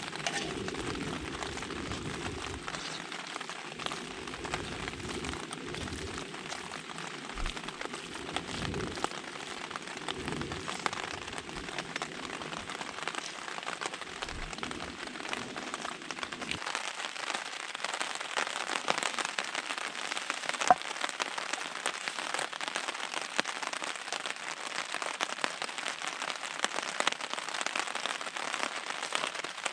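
Steady rain falling, with many individual drops ticking through the hiss and some low rumbling in the first half.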